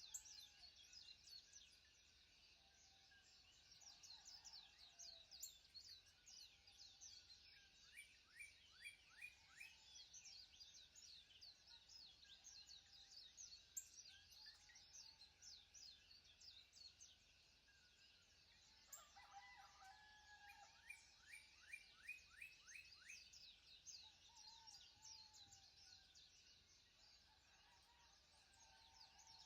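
Faint birdsong from several birds: rapid trills of short downward-sweeping chirps go on throughout, over a few lower calls.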